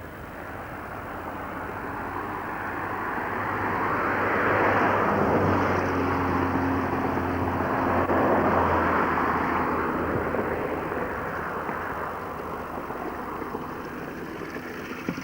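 A motor vehicle passing by: its engine and tyre noise grow steadily louder, peak about halfway through, then fade away.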